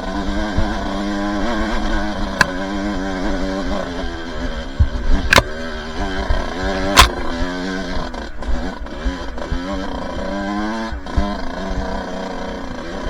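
Two-stroke dirt bike engine running under the rider, its pitch rising and falling as the throttle is worked over the trail. A few sharp knocks cut in, the loudest about two thirds of the way in.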